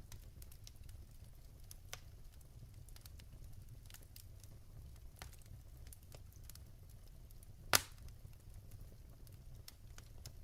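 Wood fire burning in a fireplace, with a low steady rumble and scattered crackles, and one loud pop of a log about three-quarters of the way through.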